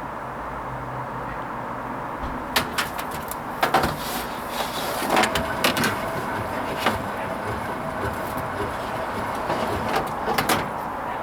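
Hoover Vision HVP16 washing machine partway through its Silks 30 delicates programme: a steady running noise with scattered clicks and knocks as the drum turns the wash load, in two clusters, the first starting about two and a half seconds in and the second near the end.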